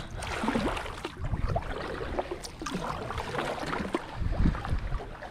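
Kayak paddle strokes, the blades dipping and splashing in the lake water.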